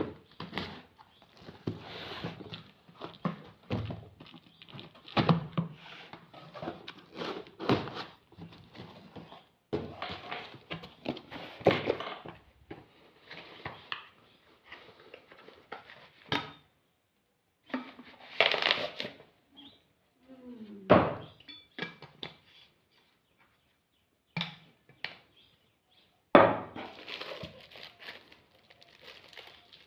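Packaging being opened and handled: an irregular run of thunks, knocks and rustling as the box and its contents are moved about, with a pause or two.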